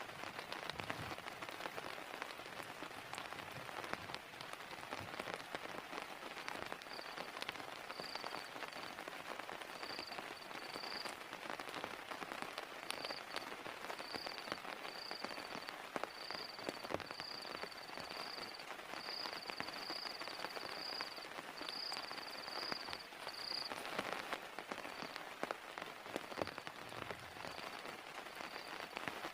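Heavy rain falling steadily, with many single drops ticking. A faint high-pitched trill comes and goes from about seven seconds in.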